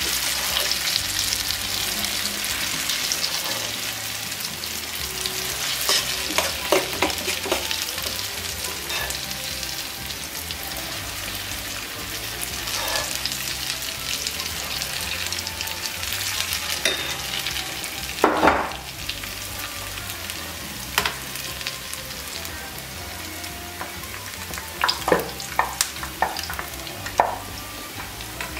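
Akara (bean-batter fritters) deep-frying in hot oil, a steady sizzle and crackle throughout. Occasional sharp clicks and knocks come in a cluster about six seconds in, once about two-thirds through, and several near the end.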